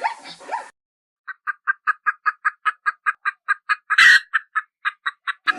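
A rapid, evenly spaced run of short animal calls, about five a second, with one louder, harsher call about four seconds in. It is preceded by the brief tail of a different series of rising calls that cuts off.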